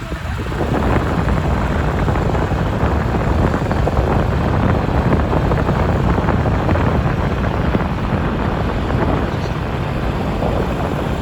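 Motorbike on the move: a steady rush of wind over the microphone mixed with the running engine.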